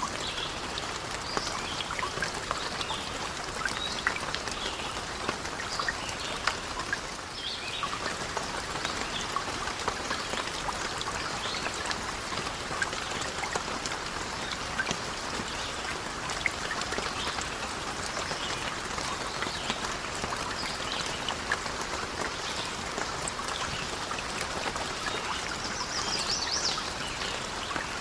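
Steady rain falling, with many sharp drop ticks scattered through it and a brief high chirp near the end.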